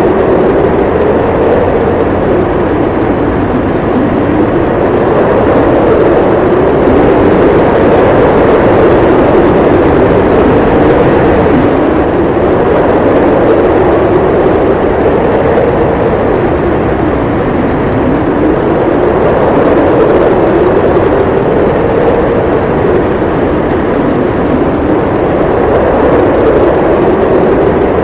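Howling blizzard wind: a loud, steady rush with a moaning tone that slowly rises and falls in pitch every several seconds.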